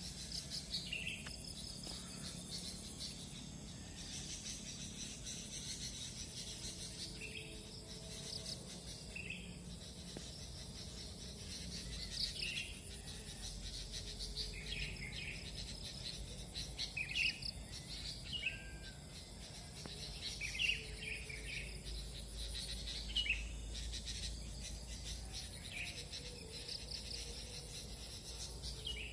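Several sooty-headed bulbuls calling with short, scattered chirps, over a steady high-pitched insect drone.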